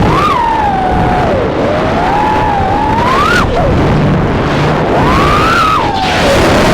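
3-inch FPV quadcopter's motors and propellers whining as it flies. The pitch rises and falls repeatedly with the throttle over a steady rushing noise.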